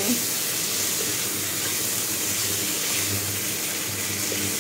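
Chicken pieces sizzling steadily in a frying pan as they are stirred, seared until they change colour.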